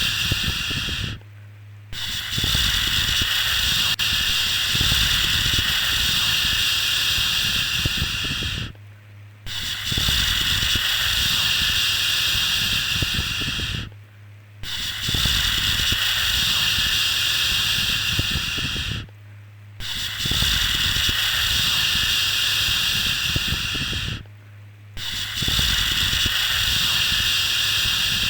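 Long, steady 'shhh' shushing sound to soothe a baby. It comes in stretches of about five seconds with a short break between each.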